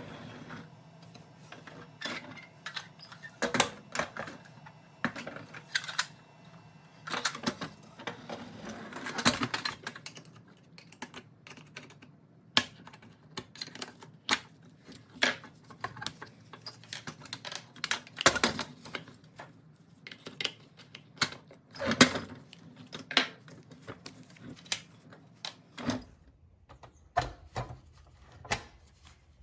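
Irregular clicks, clanks and taps of a rusty pressed-steel Tonka toy tow truck being handled and turned over on a workbench, with a screwdriver and pliers knocking and scraping against its wheels and axles as the wheels are worked off.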